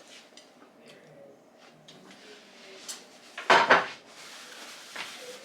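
Eating from a plate: small scattered clicks and clinks of cutlery on dishware, with one loud, rough clatter about three and a half seconds in.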